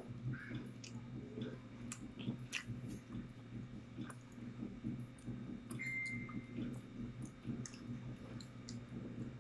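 A small child chewing soft star bread with her mouth closed, with faint moist smacks and small clicks of the mouth, over a steady low hum.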